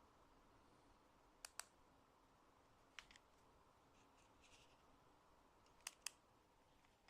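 Near silence broken by sharp clicks in pairs, three times, each pair a fraction of a second apart, with a faint rustle between the second and third pairs.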